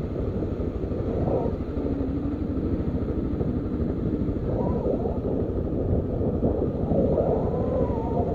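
Motorcycle engine running under way, its pitch rising and falling several times as it changes speed, over steady wind rush on a helmet-mounted microphone.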